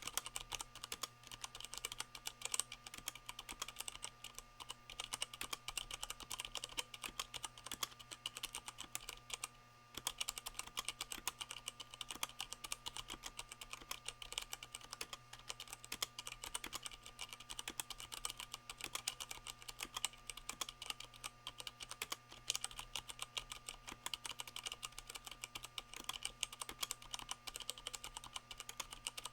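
Continuous fast typing on a Leopold FC660M mechanical keyboard with Cherry MX Brown switches fitted with O-rings, which damp the keys' bottoming out, the board resting on a microfiber towel. The keystrokes pause briefly about ten seconds in, then carry on.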